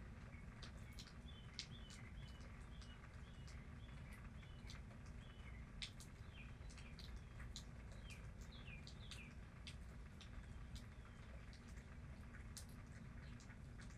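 Faint quick runs of short, falling bird chirps, thickest in the first two-thirds and thinning out later, with scattered light ticks over a steady low rumble.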